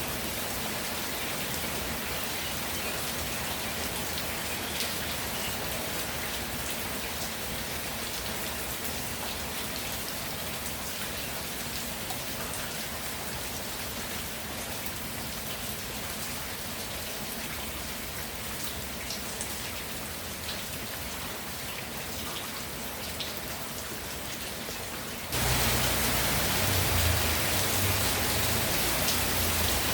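Steady rainfall with scattered individual drop ticks. About 25 seconds in it turns suddenly louder and fuller, with more low rumble.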